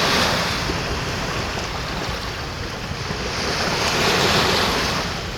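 Waves breaking and washing up a beach, surging twice, near the start and about four seconds in, with wind rumbling on the microphone.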